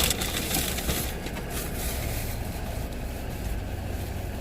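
Car engine idling as a steady low rumble inside the parked car's cabin, with short crunching clicks of chewing in the first couple of seconds.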